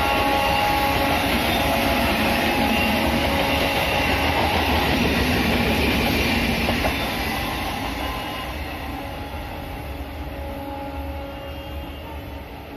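An EMU local train running past at speed: a loud, steady rumble of wheels on the rails with a few steady tones over it. The sound dies away after the last coach passes about seven seconds in.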